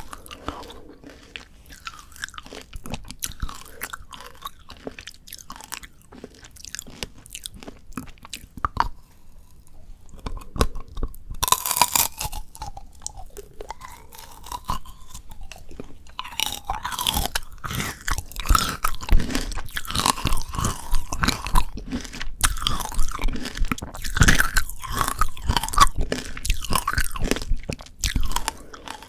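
Close-miked chewing of frozen shine muscat tanghulu: the hard candy shell cracks and crunches between the teeth along with wet chewing of the grapes. Chewing eases off briefly about a third of the way in, a sharp crack follows, and the crunching gets denser in the second half.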